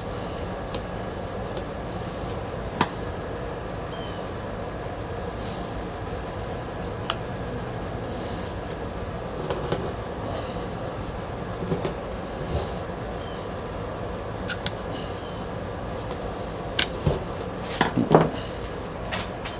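Scattered light clicks and knocks of metal parts and hand tools being handled while a ceiling fan is stripped for scrap, over a steady background hum. A cluster of louder knocks comes near the end.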